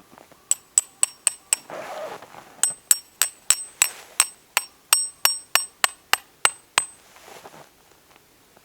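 Hammer blows on a metal tent peg, each strike ringing bright and metallic: a quick group of five, a short pause, then a steady run of about fourteen at roughly three blows a second.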